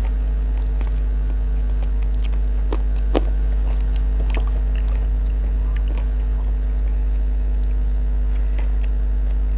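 Chewing and scattered small mouth clicks of someone eating chicken and rice by hand, picked up close by a clip-on microphone, over a steady low hum.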